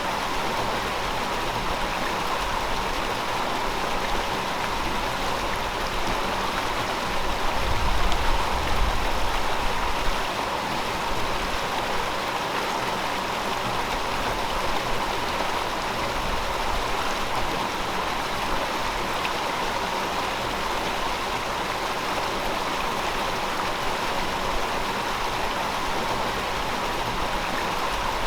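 River water flowing steadily over rocks in an even rushing wash. About a quarter of the way through, a low rumble swells for a couple of seconds and then fades.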